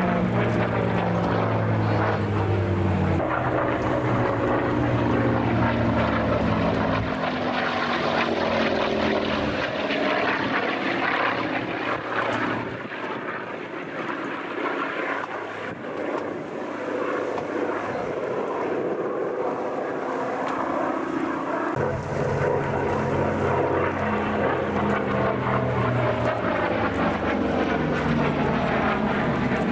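Propeller aircraft engine heard in flight, its pitch sliding slowly down and back up as the plane passes and turns. It is loud throughout and dips a little in the middle.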